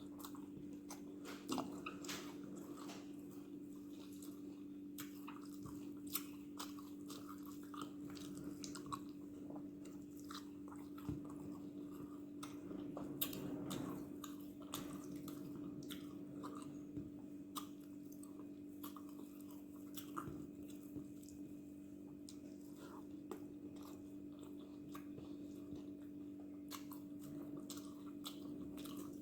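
Close-up mouth sounds of a person eating dosa with coconut chutney and chickpea kuzhambu: wet chewing with many short lip smacks and clicks, over a steady low hum.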